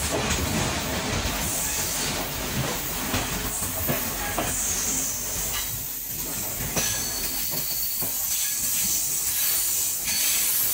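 Train running on its rails, heard from on board: a steady rumble and hiss with a few sharp clicks from the wheels. A thin, high wheel squeal comes in a little before halfway and holds as a steady high tone.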